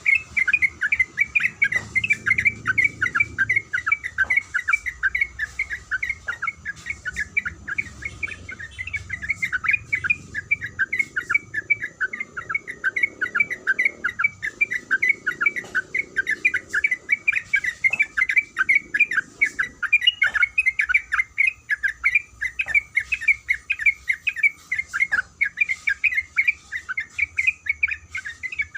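Yellow-vented bulbul (trucuk) giving a long, unbroken run of quick repeated 'kuik' notes, several a second.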